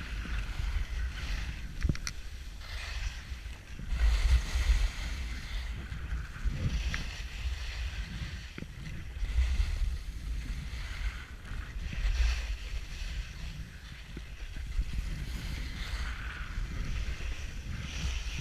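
Skis sliding and scraping over snow on a downhill run, a hiss that swells and fades with each turn, under a low rumble of wind buffeting the microphone that surges several times.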